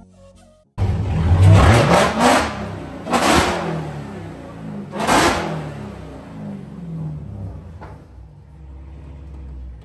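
Dodge Challenger SRT Hellcat's 6.2-litre supercharged V8 revved in about four quick throttle blips, rising in pitch each time, then settling to a steady idle.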